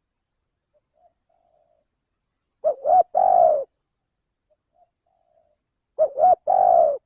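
Male spotted dove (tekukur) cooing: two loud call phrases about three seconds apart, each two short notes followed by one longer note, with faint soft notes between them.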